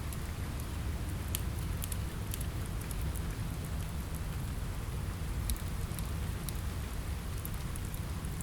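Steady rain on a window together with a crackling wood fire: a constant, deep wash of rain noise with scattered sharp crackles and pops throughout.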